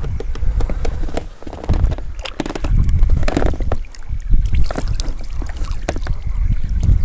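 Wind buffeting the microphone in a low, gusting rumble, with scattered small knocks and clicks from handling gear in a small boat.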